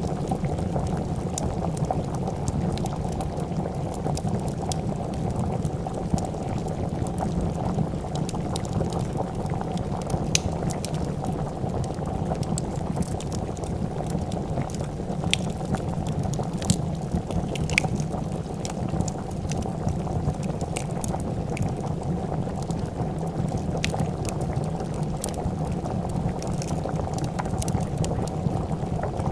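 Pot of soup boiling, a steady low bubbling throughout, with scattered sharp crackles and pops from a wood fire.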